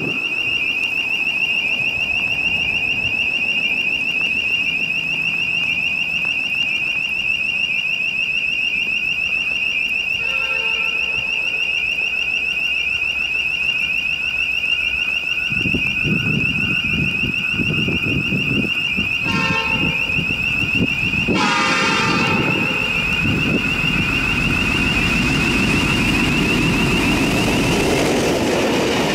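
A warning bell, likely a level crossing bell, rings steadily with a high, fast-pulsing tone. A diesel locomotive horn gives a short blast about ten seconds in and two more blasts around twenty seconds in, the last one longer. From about halfway the rumble of the heritage diesel-electric locomotives builds as the train comes close and passes.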